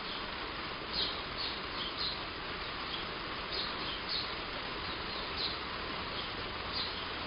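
Heavy rain falling steadily on a roof, with a bird giving short high chirps every second or so over it.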